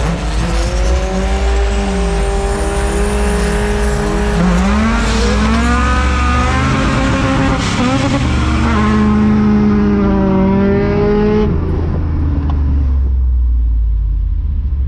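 Car engine at full throttle in a street pull from a stop, heard from inside the cabin: the revs climb, break at gear changes about four and a half and seven and a half seconds in, hold high, then fall away as the throttle closes about eleven and a half seconds in.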